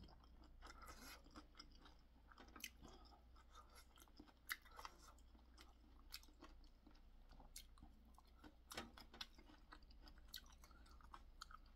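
Faint close-miked chewing of food, with scattered short wet clicks and smacks.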